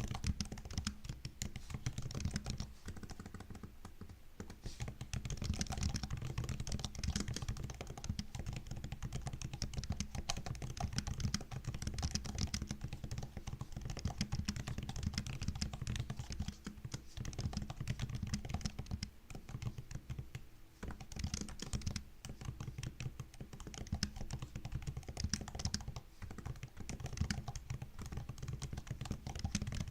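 Continuous typing on a MacBook laptop keyboard: quick, soft key clicks in steady runs, with a couple of brief pauses.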